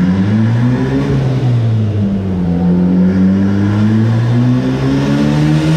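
Turbocharged Honda K20A3 four-cylinder engine running on a chassis dyno for a power run. The revs climb, drop back about a second in, then climb slowly and steadily again under load.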